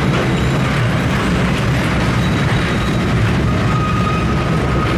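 Narrow-gauge Kurobe Gorge Railway trolley train running, heard from its open-sided car: a steady rumble and rattle of the wheels on the rails. A thin high whine joins in about three and a half seconds in.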